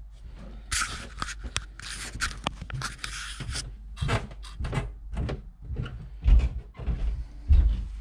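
Rustling and clattering of things being moved about in a cupboard during a search, with a run of clicks and knocks and a couple of heavier thumps near the end.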